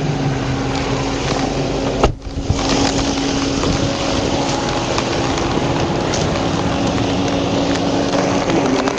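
Steady vehicle engine running, with wind on the microphone; a single sharp knock about two seconds in.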